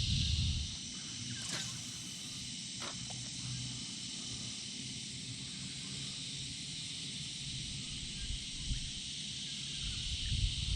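Steady high-pitched chorus of insects, with a couple of faint ticks about one and a half and three seconds in.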